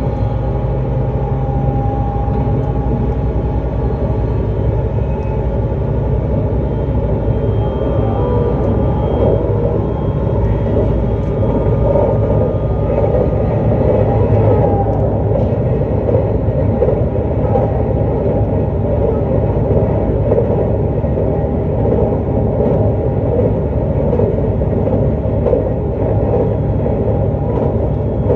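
JR East E259 series Narita Express electric train running at steady speed: continuous rumble of wheels on rail with a hum of several steady tones from the running gear, and occasional faint clicks.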